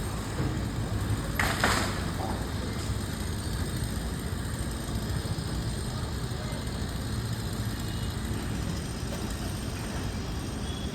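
An engine running steadily at idle, a low rumble, with a brief rushing crackle about a second and a half in.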